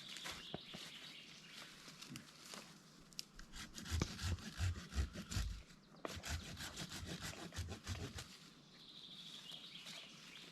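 Irregular wooden knocks, cracks and rubbing, busiest in the middle with some low thumps, while a bird trills faintly near the start and again near the end.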